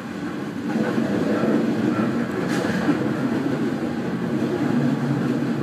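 JR East 209 series electric train running on the track: a steady rumble of wheels and running gear that grows louder about a second in, with a single click about two and a half seconds in.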